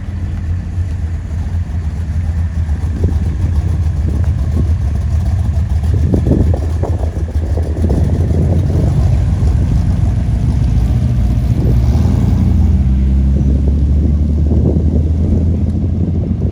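A car engine running with a loud, deep rumble that grows louder about three seconds in and then holds steady.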